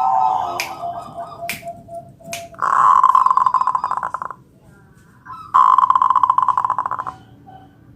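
Zebra dove (perkutut) singing: a few soft cooing notes and sharp clicks, then two loud, rapidly pulsed rolling coos, each about a second and a half long, a second apart.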